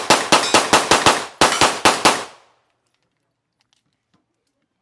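Rapid string of gunshots from a firearm, about nine shots at four to five a second with a short gap in the middle, stopping a little past two seconds in.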